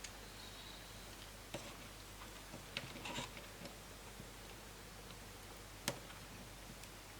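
A few light, scattered clicks and taps as a laptop's plastic screen assembly is handled, with one sharper click near six seconds in.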